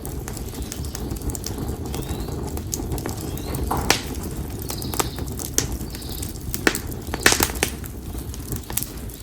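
Konara oak firewood burning in an open campfire: a steady low rush of flame with irregular sharp crackles and pops, a quick cluster of them about seven seconds in. Faint short bird calls sound behind the fire.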